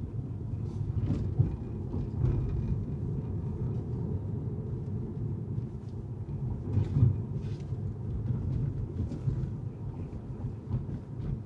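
Car driving on city streets: a steady low road and tyre rumble with a few light knocks, swelling briefly about seven seconds in.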